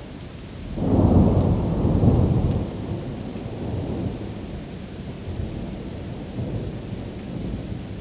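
Rain ambience with a roll of thunder: a low rumble swells about a second in, stays loud for a second or two, then fades slowly under the steady rain.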